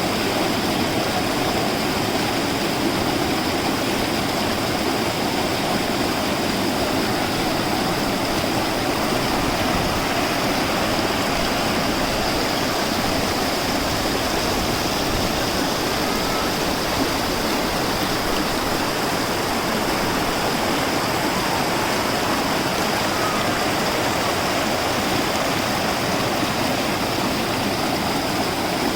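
Steady rushing water, as of a rainforest stream or waterfall, with a steady high-pitched tone above it.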